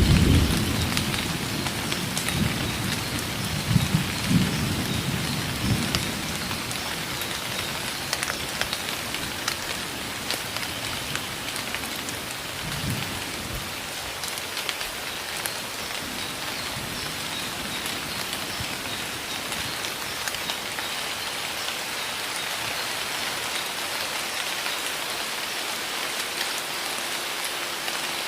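Heavy rain pouring steadily, with low rumbles of thunder in the first few seconds and once more about halfway through.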